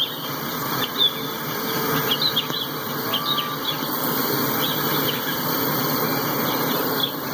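Tank cars of a freight train rolling past: a steady rumble and clatter of steel wheels on rail, with brief high squeaks from the wheels at irregular moments.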